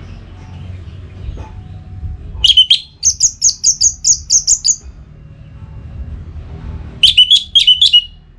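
Orange-headed thrush in full song. It gives two loud phrases of fast repeated whistled notes: the first starts about two seconds in and lasts about two and a half seconds, the second is about a second long near the end. Fainter chirping lies beneath.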